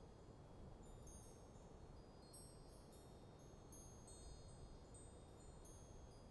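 Faint wind chimes ringing irregularly, many short high notes overlapping and fading, over a steady low rumble of breeze.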